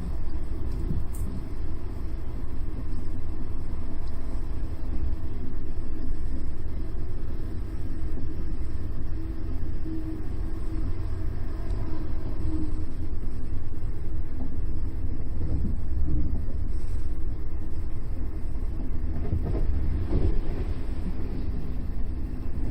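Passenger train running, a steady low rumble with faint steady hum over it.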